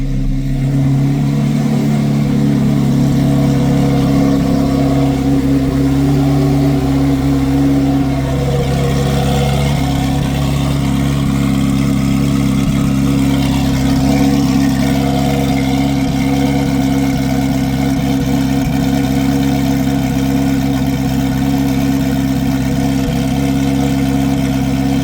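2024 Corvette C8 Z06's LT6 flat-plane-crank V8 idling steadily with its exhaust valves open, through cat-delete pipes that leave it basically straight-piped.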